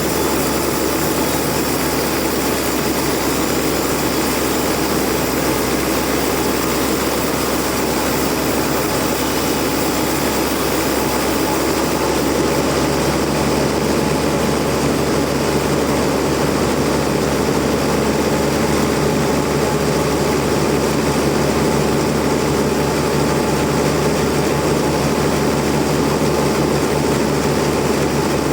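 Sawmill machinery running with a loud, steady drone and no let-up.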